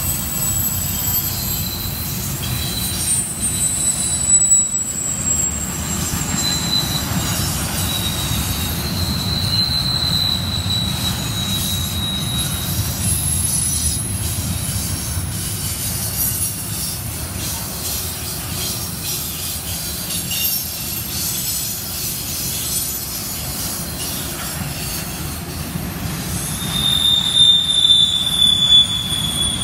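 Double-stack intermodal train's well cars rolling past: a steady rumble of steel wheels on rail, with thin high-pitched wheel squeals that drift slowly in pitch. A brief louder bump comes about four seconds in, and the squeal grows louder near the end.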